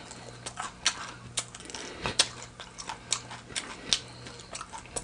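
Chewing crispy chicken wings: scattered sharp crunches and clicks, about two a second, over a faint steady hum.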